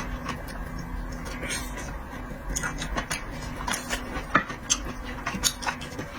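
Close-miked eating sounds: scattered small clicks and smacks of chewing and of food and utensils being handled, over a low steady hum.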